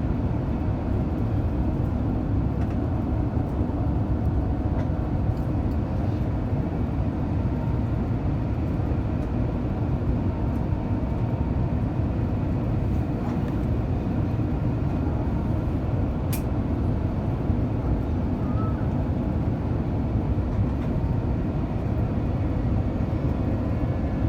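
Airbus A350 cabin noise after landing: a steady low rumble of the Rolls-Royce Trent XWB engines and the landing gear rolling on the ground, heard from inside the cabin. A single sharp click sounds about two-thirds of the way through.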